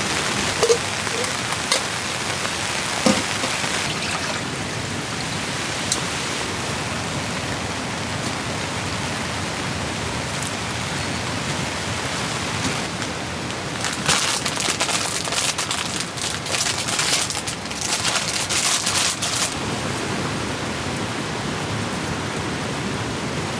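Heavy rain pattering on a tent's fabric, a steady hiss. A few sharp knocks come in the first few seconds, and a louder, crackly spell of rain runs from about 14 to 20 seconds in.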